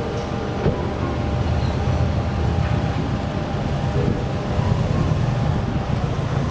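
A car running steadily, a low rumble with a noisy hiss over it.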